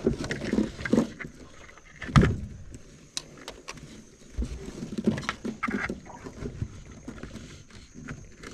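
Mud crabs and a crab pot being handled in a small boat: scattered clicks and knocks, with a loud thump about two seconds in.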